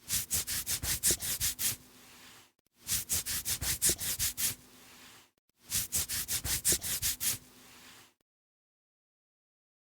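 Quick rhythmic scraping or rubbing strokes, about seven a second, in three bouts of about two seconds each, cutting off suddenly near the end.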